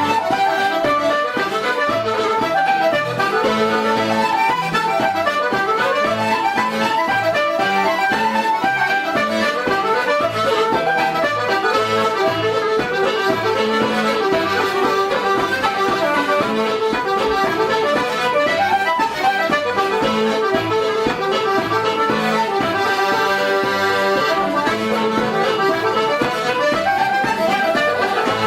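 Traditional Irish tune led by accordion, a quick run of melody notes over regularly repeating bass notes.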